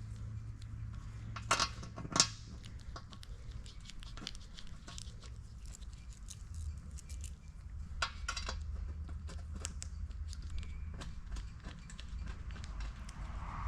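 Metal tools and parts being handled: light clinks and clicks throughout, with two louder clanks about a second and a half and two seconds in, and another brief flurry of clinks about eight seconds in, over a steady low hum.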